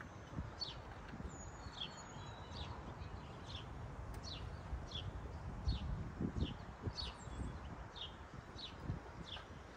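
A bird repeating a short, high, falling chirp about once every three-quarters of a second, over low rumbling noise with a few dull thumps.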